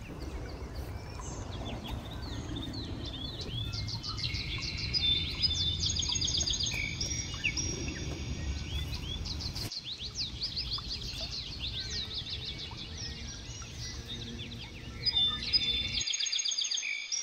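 Small birds chirping and twittering, many quick overlapping calls, over a low steady rumble that stops abruptly near the end.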